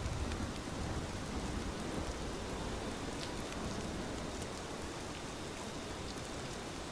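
Steady rain falling, an even hiss with scattered drop ticks. A low rumble fades out within the first second.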